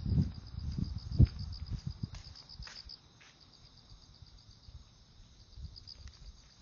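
Insects chirping in a steady, fast-pulsing high trill. Soft low thuds of footsteps and clothing rustle fill the first couple of seconds, then fade.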